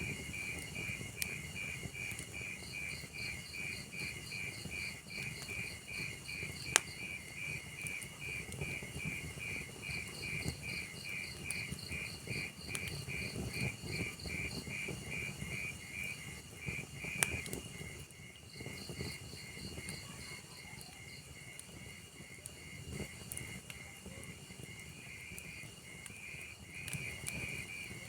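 Wood fire burning in a fireplace, crackling low with a few sharp pops, two of them loudest, about 7 and 17 seconds in. A cricket chirps in an even, regular rhythm over it.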